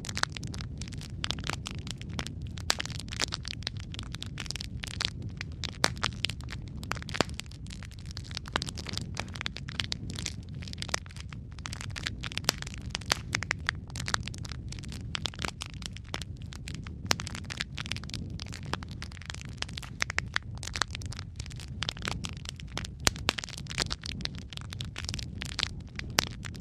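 Wood fire crackling steadily: a constant low rumble of flames under dense, irregular snaps and pops, several of them sharper and louder.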